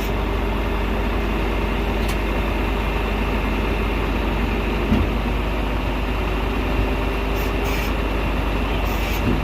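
Heavy recovery truck's diesel engine running steadily to drive its hydraulics while the bed moves, with a steady whine over the engine. There are brief knocks about halfway through and near the end.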